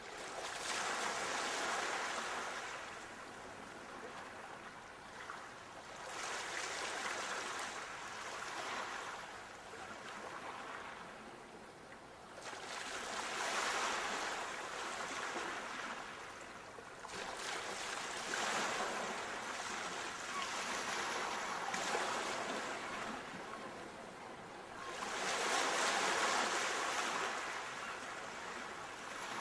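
Sea waves breaking and washing up a shore, the surf swelling and falling back about every five to six seconds.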